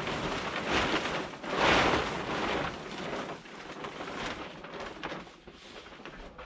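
Plastic sheeting rustling and crinkling as it is handled, with a louder swell about two seconds in.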